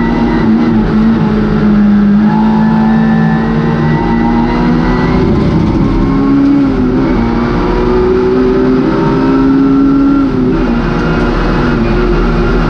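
Vauxhall Nova rally car's engine at speed under load, heard inside the cabin: a loud, steady engine note that dips in pitch about seven seconds in and again about ten seconds in.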